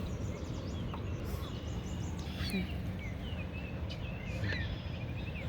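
Birds calling in short chirps and quick pitch glides, over a steady low outdoor rumble.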